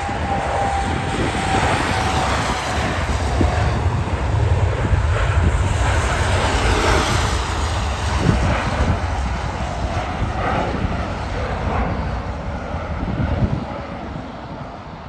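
Jet airliner's engines rumbling loudly as it passes, with a whine that drops slightly in pitch over the first few seconds. The sound eases off near the end.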